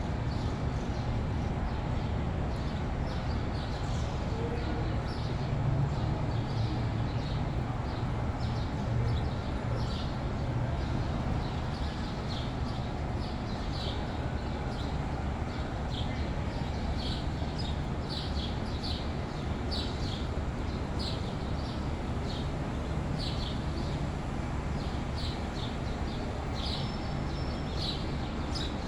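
Small birds chirping, short sharp calls repeated about once or twice a second and getting busier in the second half, over a steady low background rumble.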